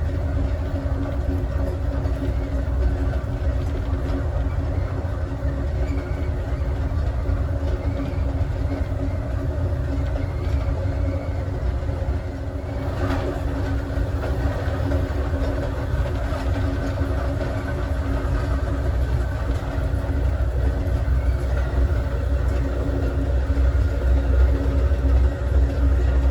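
Steady running noise of a passenger train car rolling along the track: a low rumble of the wheels on the rails with a steady hum over it, growing a little louder near the end.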